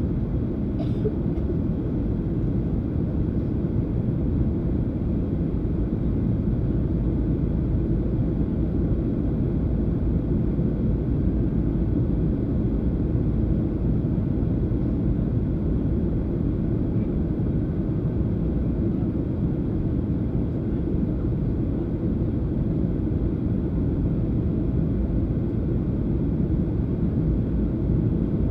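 Steady low rumble of a Boeing 737-800 heard from inside the passenger cabin in flight: its CFM56 jet engines and the rush of air along the fuselage.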